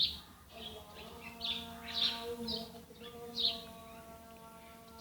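A small bird gives several short, high chirps, about one every half-second, stopping after about three and a half seconds.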